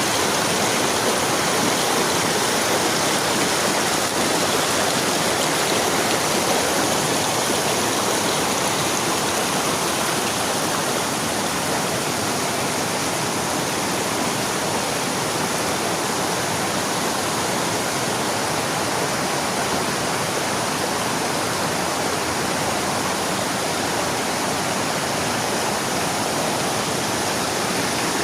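Running water rushing steadily, like a stream or small waterfall: a continuous even rush that neither swells nor fades.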